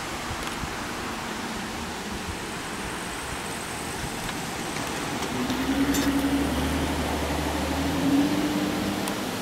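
Steady hiss of heavy rain and wind. About halfway through, a passing motor vehicle's engine hum and low rumble grow louder for a few seconds, then fade near the end.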